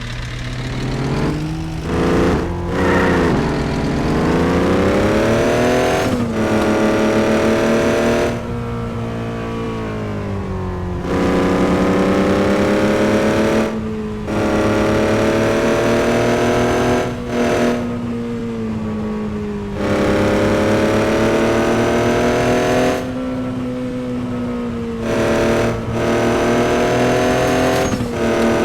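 A truck engine running under throttle, its pitch climbing and then holding. Several times it drops back as the throttle is let off, then pulls again.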